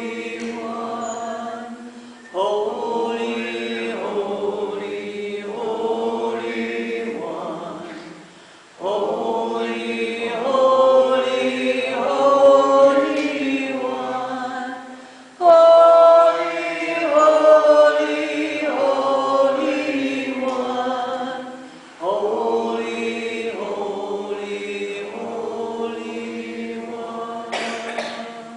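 A group of voices chanting together in long sustained sung phrases, about four phrases of six or seven seconds each, with the pitch stepping between held notes.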